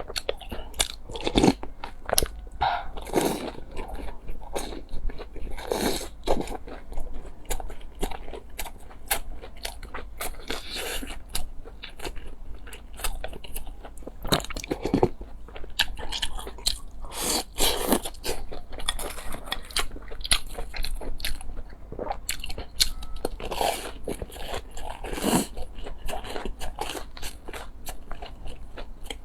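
Close-miked eating: a person biting and chewing crunchy food, with many irregular crunches and wet mouth clicks throughout.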